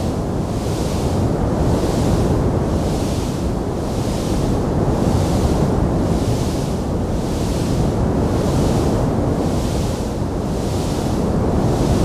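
Wood fire burning in a fireplace: a steady low roar with a hiss on top that swells and fades about once a second.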